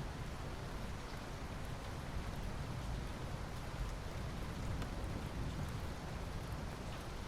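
Steady rain falling, an even hiss with a heavy low rumble underneath and faint scattered drop ticks.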